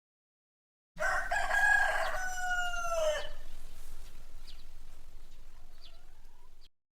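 Rooster crowing once, a long call of about two seconds that drops in pitch at the end, followed by a few faint short calls over low background noise. The recording starts suddenly about a second in and cuts off abruptly near the end.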